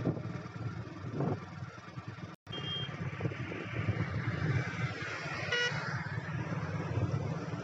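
Steady rumble of highway traffic and wind heard while riding, with a short high-pitched horn toot about two and a half seconds in and another brief horn honk about five and a half seconds in.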